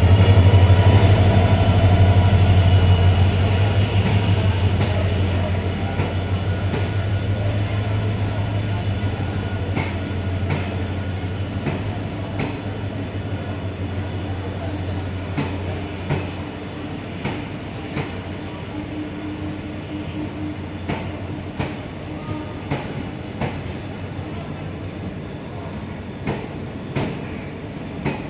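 Passenger train running past along a station platform. A heavy low drone and a high whine, which rises in pitch just at the start and then holds steady, fade away over the first half. Wheels click over the rail joints, more and more often in the second half.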